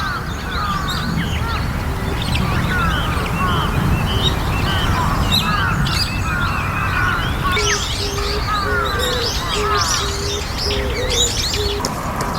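Several birds calling at once, a busy run of short, squeaky, overlapping chirps. A low short note repeats about twice a second through the second half. A steady low rumble lies underneath.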